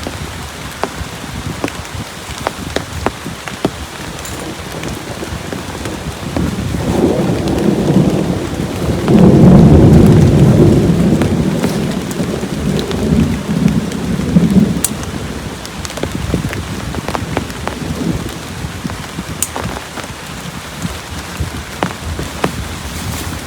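Heavy rain falling steadily, with sharp drops pattering on a surface. A long roll of thunder swells up about seven seconds in, is loudest around ten seconds, and rumbles away over the next few seconds.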